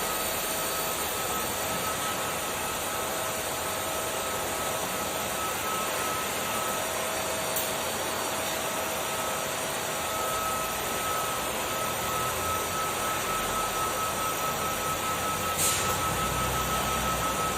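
Kärcher vacuum cleaner running steadily, a rush of air with a steady motor whine, while sucking up dirt from a floor corner. Two brief knocks are heard, one midway and one near the end.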